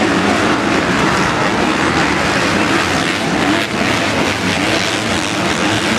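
Motocross dirt bikes racing around the track, their engines blending into a loud, steady din.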